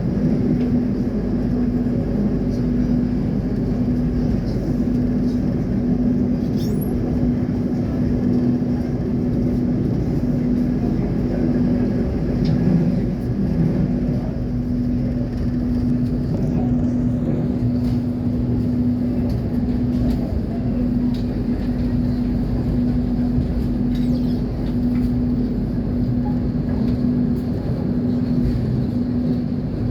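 KAI train running steadily: a continuous low rumble with a constant hum underneath.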